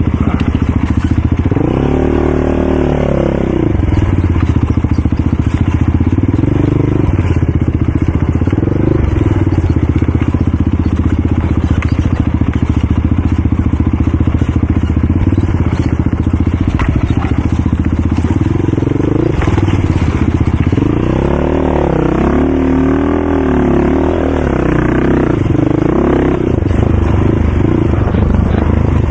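ATV engine running hard, with its pitch rising and falling as it revs about two seconds in and again for several seconds near the end.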